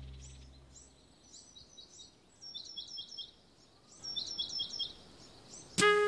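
Small birds chirping in quick runs of short, high, falling chirps, clustered in two spells in the middle. A held music chord fades out at the start, and jazz music with brass notes starts loudly near the end.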